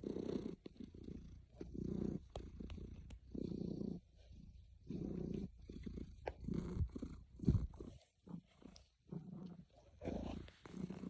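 Domestic cat purring, a contented purr in rhythmic low bursts that swell and fade about every second and a half with its breathing. A few faint clicks come through, and a louder low bump about two-thirds of the way through.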